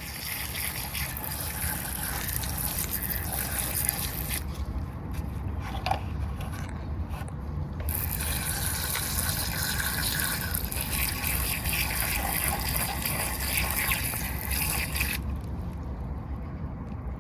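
Water spraying onto a miniature toy car in two long, steady hissing spells that start and stop abruptly, with dripping and running water between them.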